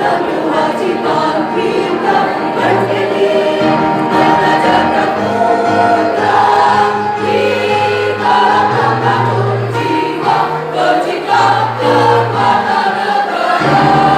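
A choir singing, several voices sounding together and holding long notes over a low sustained bass.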